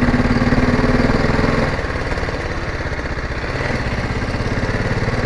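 Single-cylinder engine of a BMW G 310 GS motorcycle running at low revs, a steady pulsing chug. The level eases slightly about two seconds in.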